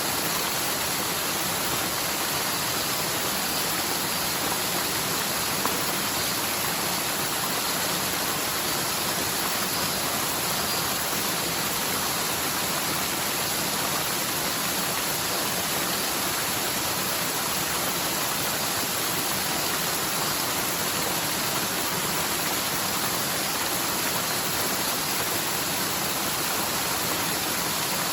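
Forest mountain stream in spate, its water rushing steadily; a stream that is normally almost dry, running full after a typhoon's heavy rain.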